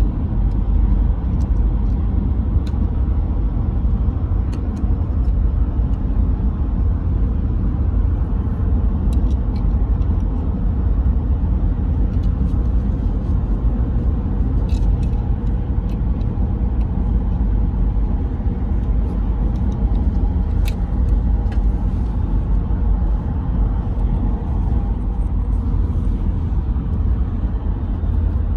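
A steady low rumble, like a road vehicle running, with a few faint clicks over it.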